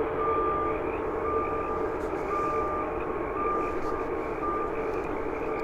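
Vehicle reversing alarm beeping about once a second, each beep about half a second long, over a steady hum.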